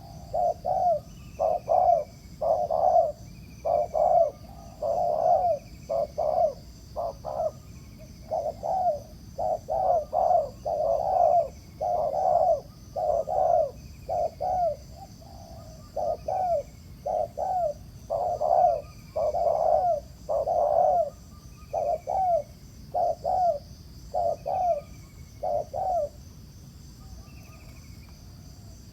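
Spotted doves cooing in a rapid series of short, deep coos that stop a few seconds before the end, with faint high chirps about once a second behind them.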